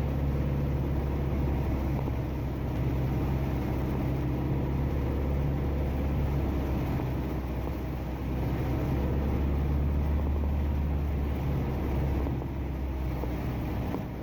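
A Beechcraft Sundowner's four-cylinder Lycoming piston engine and propeller running steadily, heard from inside the cabin as a low drone with airflow noise over it.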